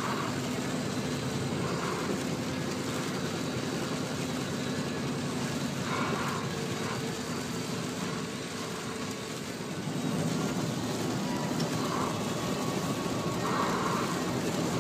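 Car driving on a motorway in a heavy thunderstorm: steady engine and road noise mixed with rain. A few short blips at irregular intervals sit above the noise.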